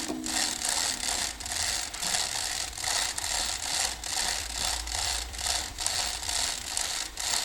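Rhythmic back-and-forth scraping on metal, about three rasping strokes a second, in the way of hand work on hydraulic cylinder parts.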